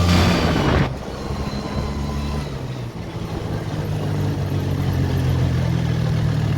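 Polaris Xpress 400 two-stroke ATV engine running, freshly rebuilt with a new cylinder and piston rings, on a test ride. Its sound drops suddenly about a second in, then holds steady and slowly grows louder.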